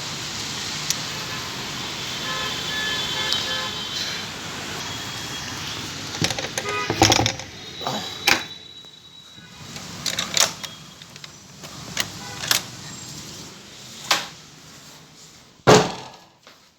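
Steady rain for about six seconds, with a few short faint beeps in it. Then the rain drops away and a run of sharp clicks and knocks follows, the loudest one near the end, like a phone being handled or someone moving about.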